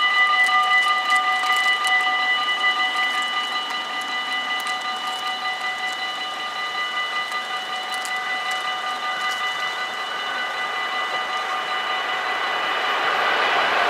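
Level crossing warning bells ringing continuously at an automatic half-barrier crossing, with the noise of an approaching train rising near the end.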